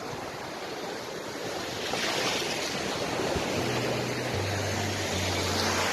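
Sea waves washing onto a sandy beach, the surf noise swelling twice. Low, steady background music notes come in about halfway through.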